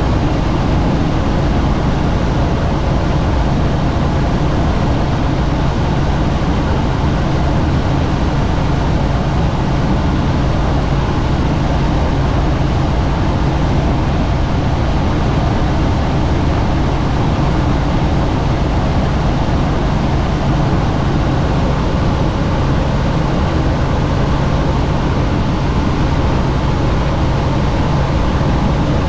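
Helicopter in flight heard on board: steady, loud rotor and engine noise with a low hum under rushing air.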